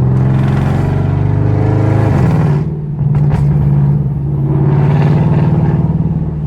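Loud exhaust drone of a naturally aspirated car at low revs, heard from inside the cabin. About two and a half seconds in the pitch falls and the sound briefly dips, as with a lift off the throttle or a gear change, then the steady drone resumes.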